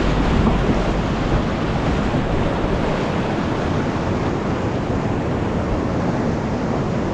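Steady rush of whitewater in a creek rapid.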